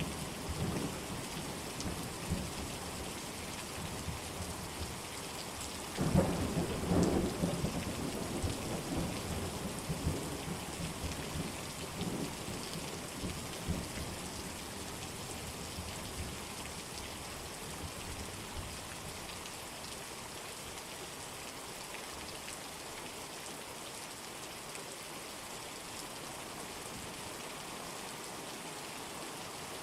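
Steady heavy rain with thunder: a low crack and rumble breaks about six seconds in and fades away over several seconds, leaving an even hiss of rain.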